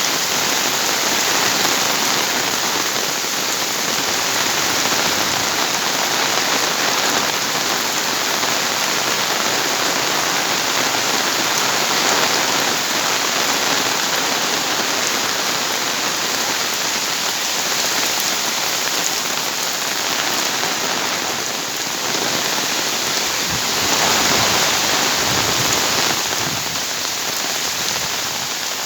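Heavy rain pouring down steadily, a dense even hiss of rain hitting surfaces, swelling slightly now and then.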